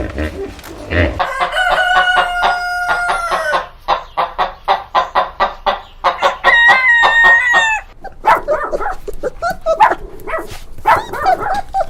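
Rooster crowing twice, each crow a long held call that drops in pitch at its end, with clucking calls between and after.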